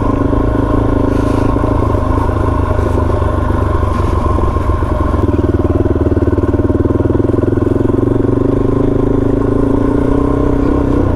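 Suzuki DRZ400 single-cylinder four-stroke dirt bike engine running steadily under way on a trail ride, with a light clatter.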